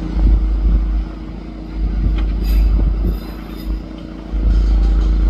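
Demolition excavator's diesel engine running steadily, under a heavy low rumble that swells and drops several times.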